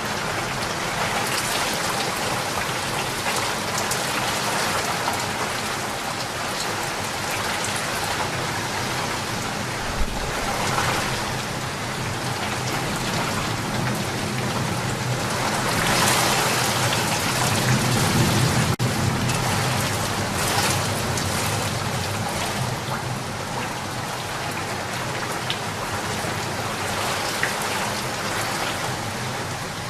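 Steady rain falling in a continuous dense patter. Around the middle a low rumble swells up and fades, along with a single sharp tick.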